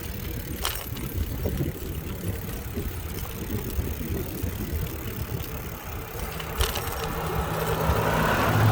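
Steady low rumble of riding along a road, with two sharp clicks. From about seven seconds in, a passing car's engine and tyre noise grows louder.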